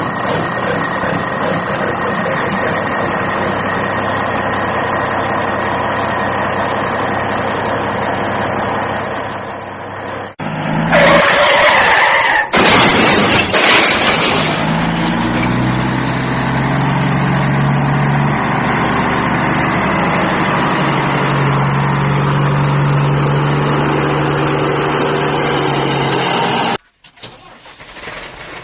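Vehicle engine running steadily, then a loud rough burst about eleven seconds in like an engine starting, followed by the engine running again with its pitch shifting; it cuts off suddenly near the end.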